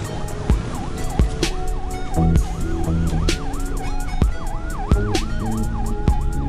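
An emergency siren in a rapid yelp, its pitch sweeping up and down about three times a second, starting about two seconds in. It sounds over music with a steady heavy drum beat.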